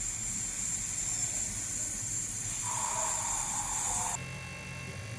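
Steady, loud pressurised hiss with a thin high whistle over it; a second, lower tone joins it near the end, and the whole sound cuts off suddenly about four seconds in.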